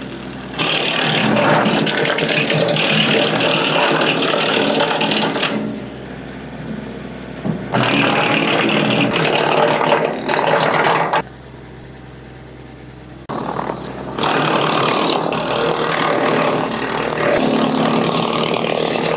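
PTO-driven FarmMaster WCP100 wood chipper running off a tractor and chipping branches: three loud spells of crunching and shredding, each several seconds long, over the steady hum of the running machine, which is quieter between them.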